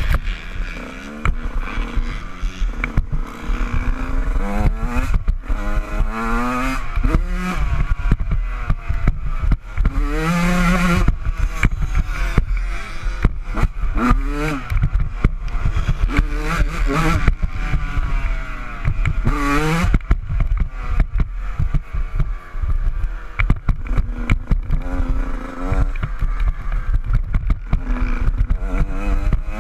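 Honda CR125's two-stroke single-cylinder engine revving up and dropping off again and again while being ridden hard, pitch rising and falling every second or two, with the bike's clattering and knocking underneath.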